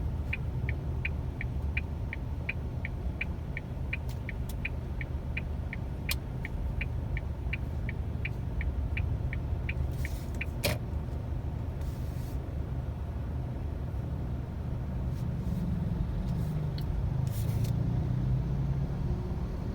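Car turn-signal indicator ticking steadily, about three clicks a second, over the low rumble of the engine and road inside the cabin; the ticking stops about ten seconds in with a single louder click as the signal cancels.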